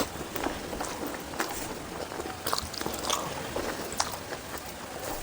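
A person chewing and eating, with scattered soft clicks and mouth smacks.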